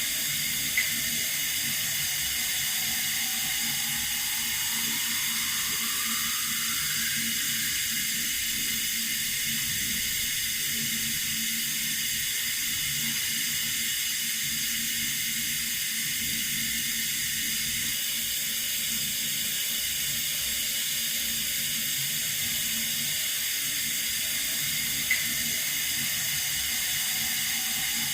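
Water running steadily from a tap, an even hiss. A faint rising tone comes in twice, and there is a small click near the start and another near the end.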